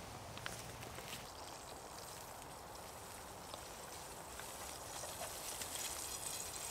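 Eggs frying in a pan: a faint, steady sizzle with a few small pops, growing a little louder toward the end.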